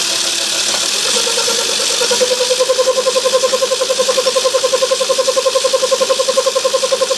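Myford ML7 lathe running in reverse under power, its carriage being driven back along the leadscrew between thread-cutting passes. About a second in, a steady whine that pulses about twelve times a second sets in over the motor's hiss.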